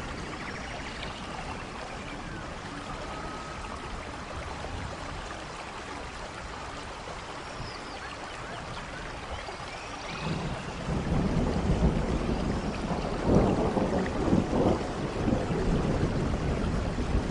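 Steady rain falling; about ten seconds in, a low rumble of thunder builds and rolls on, louder than the rain.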